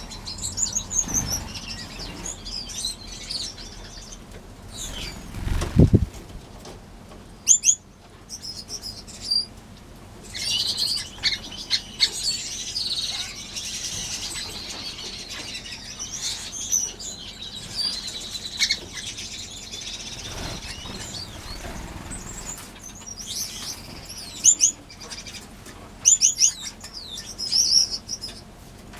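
Many small aviary finches chirping with quick, high calls and fluttering their wings, with a busier stretch of overlapping chatter in the middle. A low thump about six seconds in.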